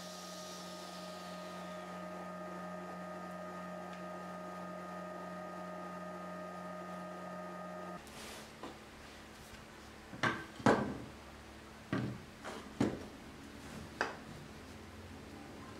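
A steady machine hum with a few fixed tones for about eight seconds, then it stops abruptly and about five sharp wooden knocks follow, like oak parts of a cabinet being handled and set down.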